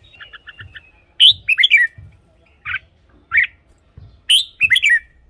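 Red-whiskered bulbul singing: a quick run of five short, even notes, then loud, bright warbling phrases of three or four notes each, with short pauses between them.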